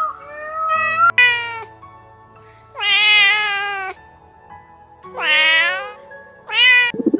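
Domestic cat meowing four times: a short call about a second in, a long drawn-out one around three seconds, another around five seconds and a short one near the end.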